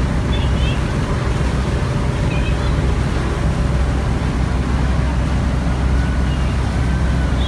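Steady low engine rumble of a boat underway, with a constant wash of noise over it.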